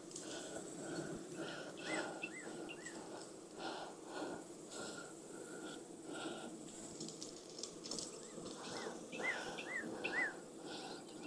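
Honeybees buzzing around an open hive in a steady hum, with scattered knocks and a bird's short three-note chirps, heard twice.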